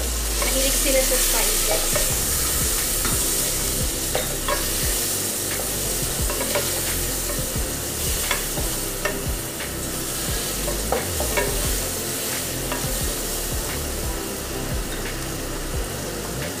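Chicken and spices sizzling in oil in an aluminium pot while a wooden spatula stirs them, with frequent clicks and scrapes of the spatula against the pot.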